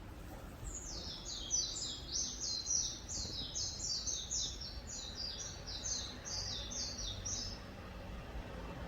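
A songbird singing one long run of quick, high notes, each slurring downward, repeated a little more than twice a second for about seven seconds, over a steady low background hum.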